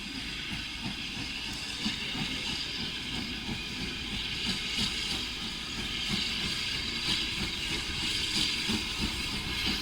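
Steam locomotive standing at a station and hissing steadily as it lets off steam, over an uneven low rumble.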